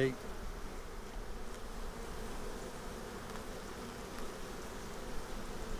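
Steady buzzing hum of many honeybees around an open hive.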